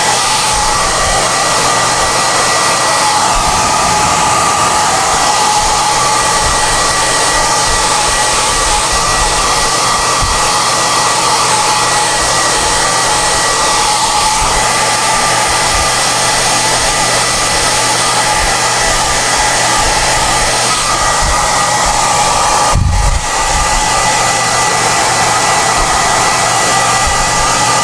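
SOUNATE high-airflow hair dryer running steadily, a loud rush of air with a steady high-pitched whine from its fast motor. Near the end the sound briefly dips with a low thump.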